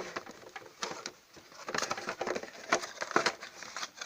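Hands handling small hobby parts and their packaging: irregular clicks and short rustles, some sharper taps among them.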